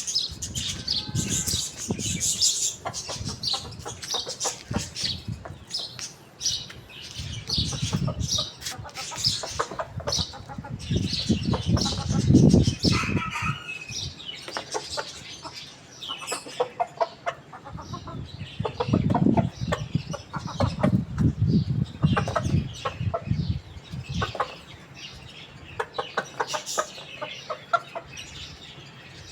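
Chickens clucking on and off, with scattered high chirps, short clicks and a few bursts of low rustling.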